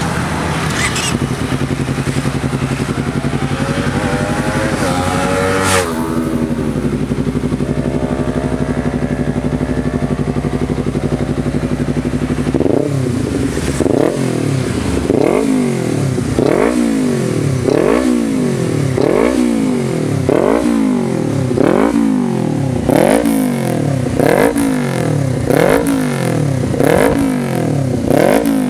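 Honda CBR250RR motorcycle engine running and revving. One rising rev cuts off sharply about six seconds in. From about halfway on the engine is blipped over and over, about once a second, each rev climbing and dropping sharply.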